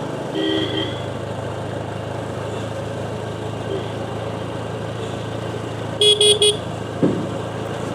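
Steady hum of a motorcycle on the move, with vehicle horns sounding over it: a short double honk about half a second in, then three loud quick toots about six seconds in.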